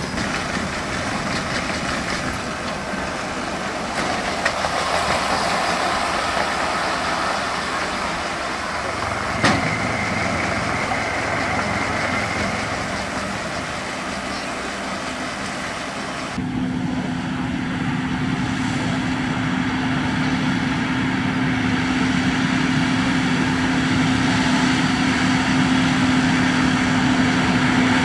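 Tractor engines running at steady speed, with a single sharp knock about a third of the way in. About halfway through the sound changes abruptly to one engine humming steadily on a held tone.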